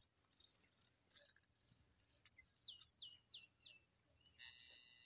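Near silence with faint birdsong: a run of four quick falling chirps about three seconds in, then a short buzzy call near the end.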